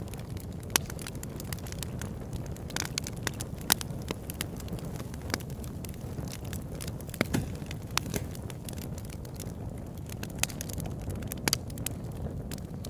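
Wood fire crackling: a large log burning in an oil-drum fire pit, with irregular sharp pops over a steady low rumble, a few pops much louder than the rest.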